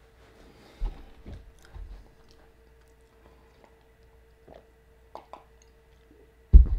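Sparse, close-miked mouth sounds of a person eating and drinking: soft chewing and swallowing with small clicks, then a loud low thump near the end.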